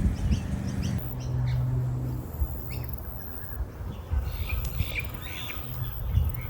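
Birds chirping, with short high calls scattered through, over a steady low rumble.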